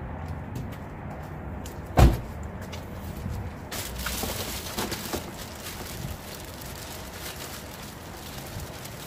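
Household items being handled and unpacked, with scattered knocks and clicks and one loud, heavy thump about two seconds in.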